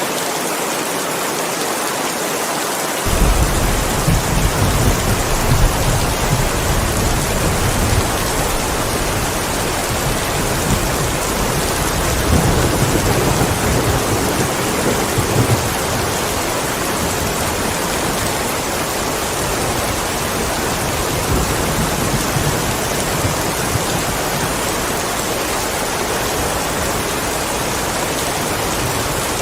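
Steady rain falling, with a low rumble of thunder that comes in suddenly about three seconds in, swells and fades through the first half, and carries on more faintly after.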